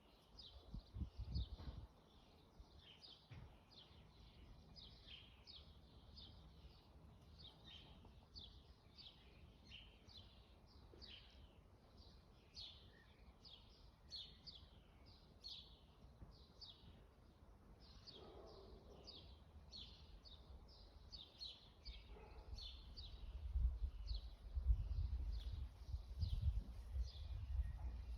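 Many small birds chirping in a dense chorus of short, high, quick chirps. A low rumble, like wind on the microphone, comes in near the start and again in the last few seconds.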